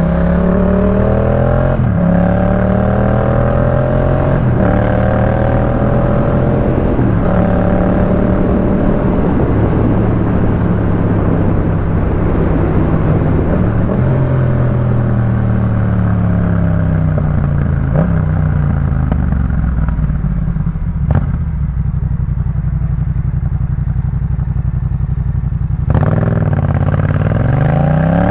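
Yamaha MT-07's 689 cc parallel-twin engine through a Jeskap K4 full aftermarket exhaust, under way. It climbs in pitch through about three quick upshifts, holds steady with wind rushing, then falls off as the throttle closes and runs lower for a few seconds. Near the end it revs up sharply again.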